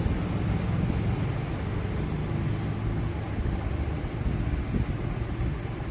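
Steady blowing noise from a hot air rework station.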